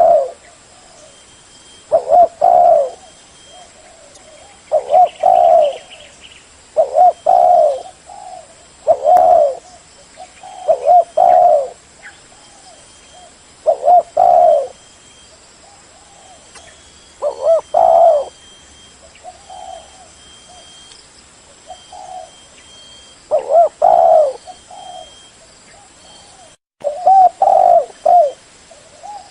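Spotted dove cooing: a short phrase of low coos, repeated every couple of seconds.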